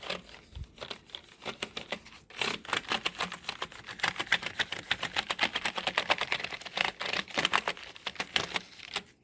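A small brush scrubbed quickly back and forth across computer keyboard keys, bristles scratching and the keycaps clattering in fast strokes. It starts light and grows louder and busier about two seconds in, then stops shortly before the end.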